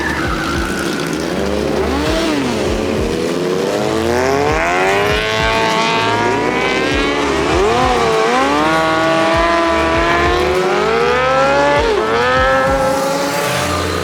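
Car engine revving hard, its pitch climbing and dropping several times, with some lower engine rumble underneath.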